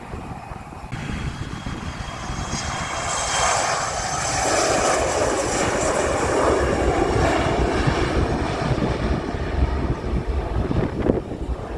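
Jet airliner's turbofan engines passing: a high whine and rushing roar build up, are loudest mid-way, then ease off. Gusty wind buffets the microphone throughout.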